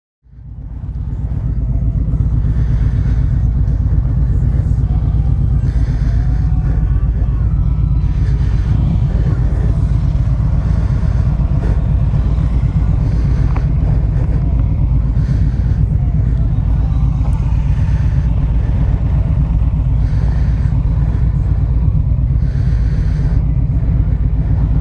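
Motorcycle engine running with a steady low rumble, fading in over the first second or two.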